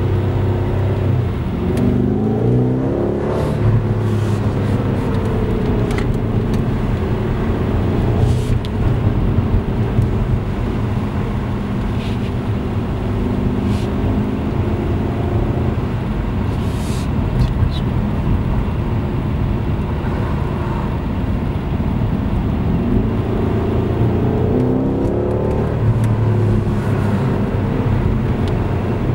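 BMW M550i's twin-turbo V8 heard from inside the cabin while driving, with road and tyre noise underneath. The engine note rises with revs twice, a couple of seconds in and again near the end, with steadier running in between.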